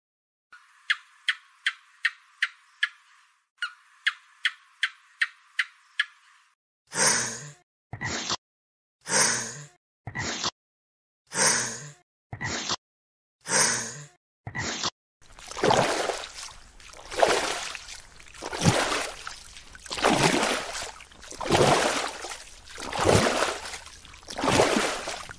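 Quick, even ticking, about three ticks a second with a brief break in the middle. Then breathy huffs in pairs, a longer one and a shorter one, repeating every two seconds or so. From about halfway through, steady rushing water takes over, swelling and ebbing about every second and a half.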